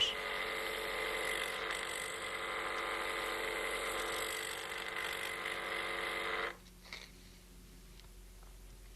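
Small electric honing machine running with a steady, whirring hum as a surgical curette is worked on its round hone; it cuts off suddenly about six and a half seconds in.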